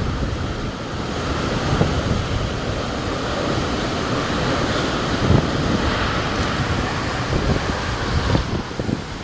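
Hurricane-force wind blowing hard across the microphone: a loud, steady rush with stronger gusts in the middle and near the end.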